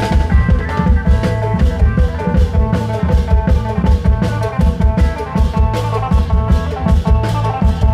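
Isan klong yao band music: a dense, steady drumbeat with a melody of stepping notes played over it.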